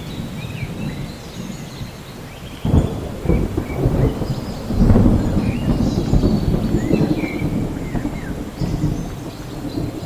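Steady rain with thunder rumbling low beneath it, the rumble swelling suddenly about a quarter of the way in and building again around the middle.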